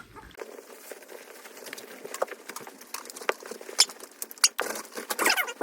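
Pit bull puppies moving about their pen: scattered light taps and pattering, then high-pitched puppy squeaks near the end.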